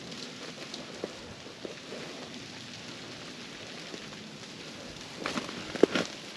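Light rain pattering on ice-coated branches and ground, with a short run of sharp clicks and cracks near the end.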